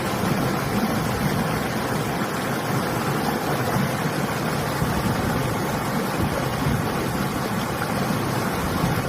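River water rushing steadily, with winter wind blowing over it and against the microphone.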